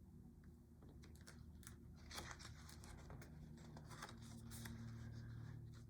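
Faint paper rustling and crinkling as a picture book's page is handled and turned, over a low steady hum.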